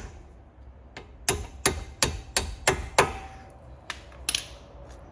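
Hammer tapping a pad retaining pin home through a Brembo brake caliper: a quick run of about seven metallic taps, the last leaving a brief ring, then two lighter taps.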